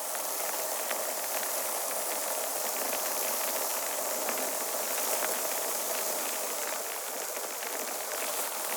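Steady hiss with faint scattered crackles.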